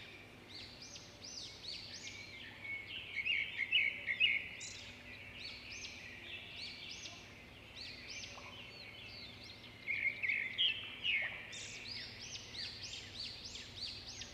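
Small birds chirping and singing: quick series of short notes that sweep up and down, busiest and loudest a few seconds in and again in the last few seconds, over faint steady background noise.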